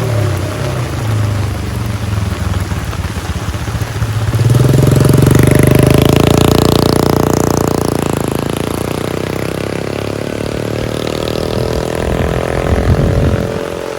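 A motor vehicle's engine passes close in heavy rain. It rises sharply about four and a half seconds in, is loudest a second or two later, then fades away, with a shorter swell near the end, over a steady hiss of rain.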